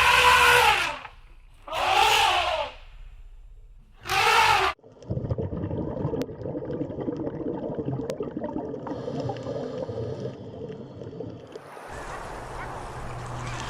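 Three loud, drawn-out animal calls, each arching up and then down in pitch. They are followed by several seconds of rough, gurgling water-like rushing noise.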